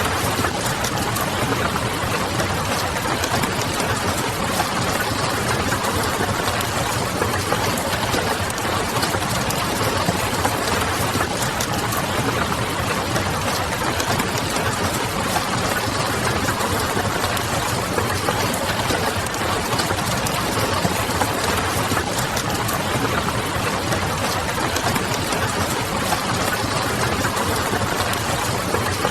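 Steady rain pattering on a window, mixed with the small crackles of a wood fire: an even hiss strewn with many little ticks, over a low steady hum.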